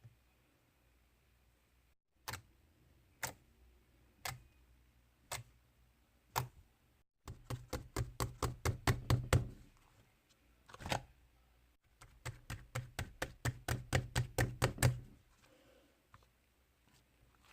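Knocking on a hard surface. First come five single knocks about a second apart. Then come two quick runs of knocks, about six a second, each lasting a few seconds, with a lone knock between them.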